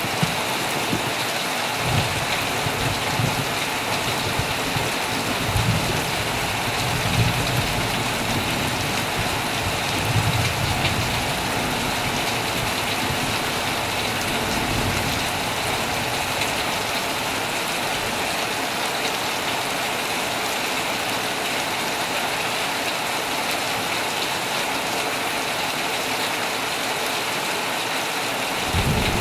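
Heavy rain falling steadily on a tent, with low rumbles of thunder coming and going during the first ten seconds or so.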